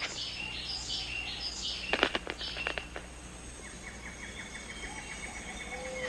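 Rainforest ambience of birds and insects: repeated high chirping calls in the first half and a few sharp clicks about two seconds in. Then comes a fast pulsed insect-like trill, over a steady high insect whine.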